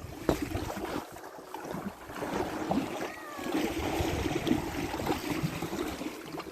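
Frozen pond ice knocking and crackling, with a short falling, whistle-like chirp about three seconds in.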